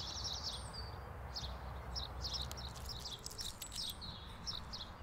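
Birds chirping, short high chirps repeated irregularly throughout, over a steady low rumble of outdoor ambience.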